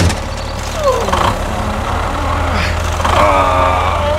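An engine running steadily with a low rumble, idling. About a second in there is a falling pitched glide, and near the end a short pitched, voice-like call.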